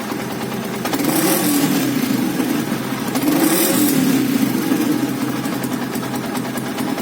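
Yamaha Vixion New's single-cylinder four-stroke engine running through a Suzuki Satria FU exhaust muffler: idling, blipped twice, about a second in and again just past three seconds, each rev rising and falling back to idle.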